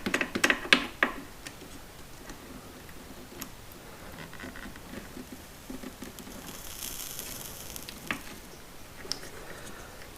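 Soldering a small wire joint: a cluster of light clicks and taps as the wires are handled, then a brief faint sizzling hiss of solder flux about seven seconds in.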